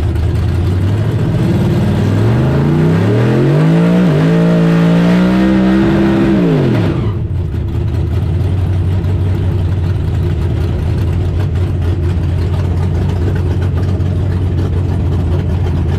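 Drag racing vehicle's engine accelerating hard, its pitch climbing steadily with a brief dip about four seconds in, like a gear change. The pitch drops away about seven seconds in as the throttle comes off, leaving a steady low engine drone.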